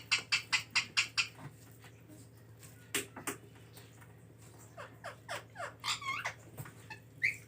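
Indian ringneck parrot calling: a fast run of short sharp calls, about five a second, that stops a little over a second in. Then come a few scattered notes, and from about five seconds on several whistled calls that fall in pitch, with a short rising note near the end.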